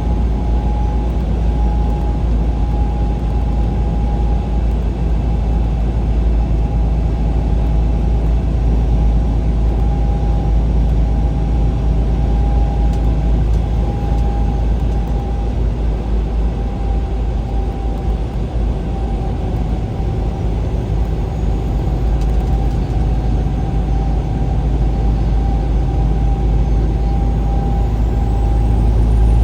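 Steady engine and road rumble inside a vehicle driving along a highway, with a thin constant whine above it.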